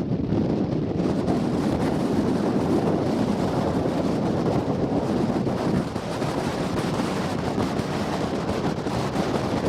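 Strong wind blowing across the microphone, a dense, steady rumbling rush with no clear tones, which cuts off abruptly at the end.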